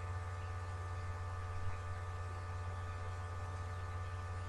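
Steady electrical mains hum with a faint hiss, even and unchanging throughout.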